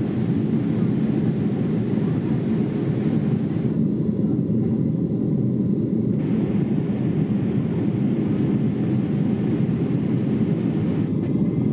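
Airliner cabin noise inside a Boeing 787-8: a steady low rush of airflow and engine noise with no breaks.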